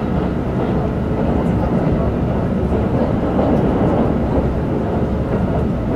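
Keikyū 2100 series electric train running at speed, heard from inside the passenger car: a steady rumble of wheels on rail and running gear.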